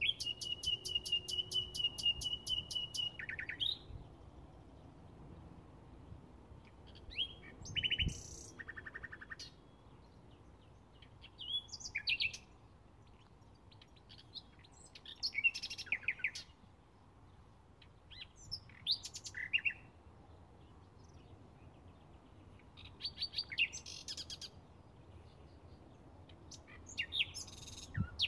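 Bluethroat singing: short, varied high phrases every three to four seconds. The first is a fast, even run of repeated notes lasting about three seconds.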